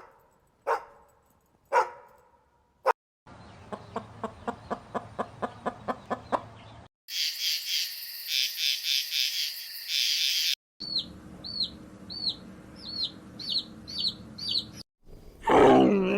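A run of short animal and bird calls in quick succession. First come a few sharp single calls, then a rapid series of short pulsed calls at about nine a second, then a burst of high chirping. After that, a bird's short rising chirps repeat about twice a second, and a loud drawn-out call begins near the end.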